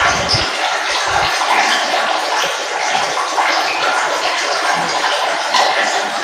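Water flowing and trickling steadily, as a continuous splashing hiss.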